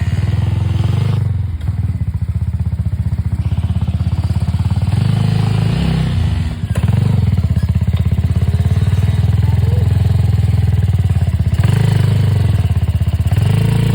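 Dirt bike engine running hard under throttle, its note dipping briefly twice, about one and a half and six and a half seconds in.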